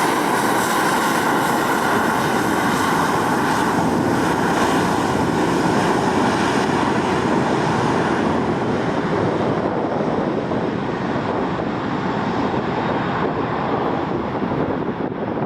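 Jet engines of a Boeing 737-800 (CFM56-7B turbofans) running loud and steady, with a whine in the upper mid-range over the roar. The high hiss fades away over the second half.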